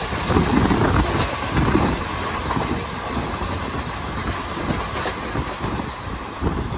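Indian express train of ICF coaches running at speed, heard from alongside the coach: a steady rumble of wheels on the track with irregular clattering over the rails.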